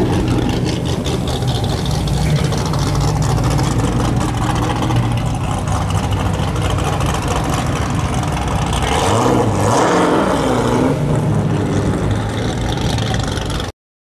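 Black Chevy Nova's engine and exhaust rumbling low and steady as the car drives by and turns, with a brief wavering rise about nine to eleven seconds in. The sound cuts off suddenly near the end.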